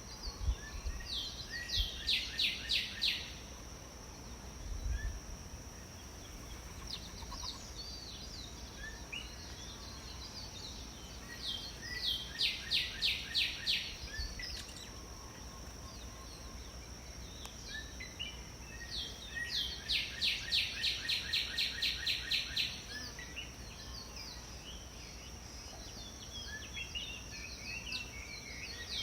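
Birds singing: a song of quickly repeated loud notes comes three times, each a few seconds long, with scattered chirps between, over a steady high-pitched tone.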